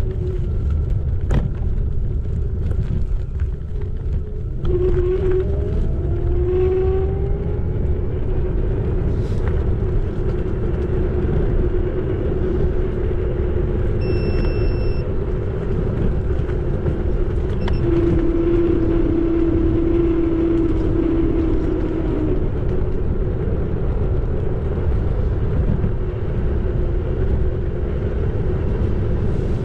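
Xiaomi Electric Scooter 4 Pro riding along: wind on the microphone and tyre rumble, over the electric motor's steady whine, which rises in pitch a few seconds in. A brief high tone sounds about halfway through.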